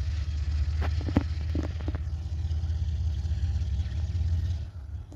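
Low, steady engine rumble with a few knocks about one to two seconds in; it drops away shortly before the end.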